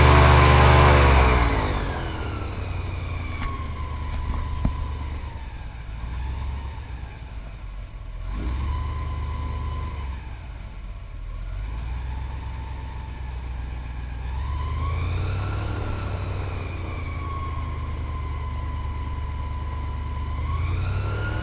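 Airboat engine and propeller at full throttle, throttling back about two seconds in with a falling pitch, then running lower and steady. The pitch rises again around fifteen seconds in and once more near the end as the throttle opens.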